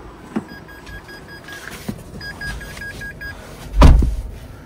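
Two quick runs of short electronic beeps at one steady pitch, six to eight beeps in each run, followed near the end by a loud low thump.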